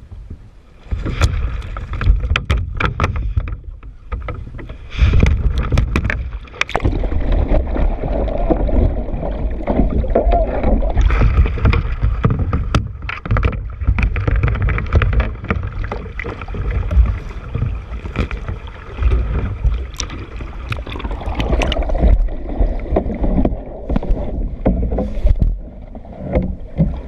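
A kayak on the water: irregular knocks and clicks over a loud, uneven low rumble that surges and drops throughout.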